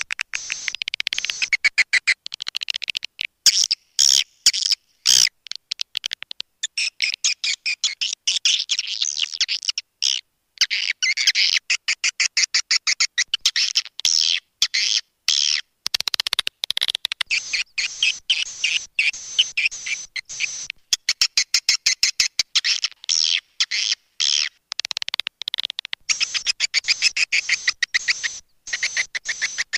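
Swiftlet call track: swiftlets chirping and twittering in rapid trains of short, high chirps, broken by brief gaps. This is the calling sound played to draw swiftlets into a nesting house.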